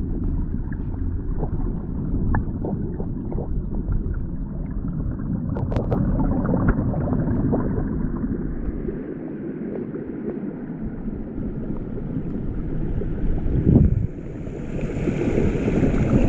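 A rushing stream heard as a steady, muffled rumble, mixed with wind buffeting the microphone and scattered faint clicks.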